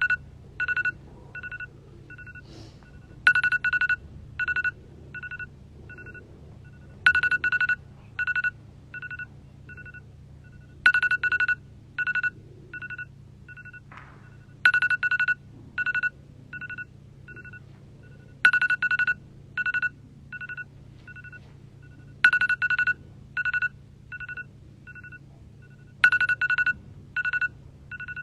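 A phone ringtone ringing again and again: a short beeping tune repeating about every four seconds, each time a quick loud run of beeps followed by softer, fading ones, over a low steady hum.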